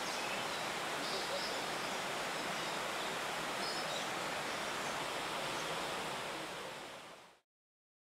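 Steady outdoor ambient noise with a few faint, short, high bird chirps, fading out about seven seconds in.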